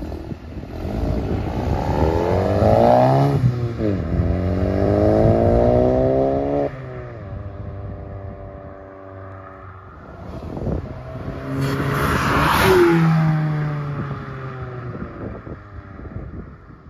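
Volkswagen GTI's turbocharged 2.0-litre four-cylinder, fitted with a catted downpipe and turbo intake, accelerating hard through the gears: the engine note climbs steeply and drops at two upshifts, about three and a half and six and a half seconds in. It settles, then swells again and falls in pitch as the car goes past about twelve seconds in, and fades into the distance.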